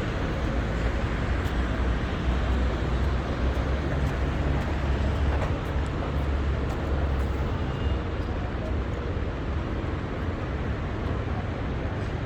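Steady city street traffic in the rain: a low rumble of vehicle engines under a continuous hiss.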